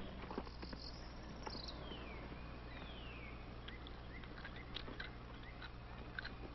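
Outdoor ambience on an old film soundtrack: sparse short bird chirps of varying pitch and two long falling whistles, over a steady low hum.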